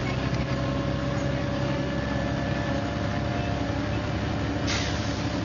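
MCW Metrobus double-decker bus engine running steadily, with a short hiss near the end.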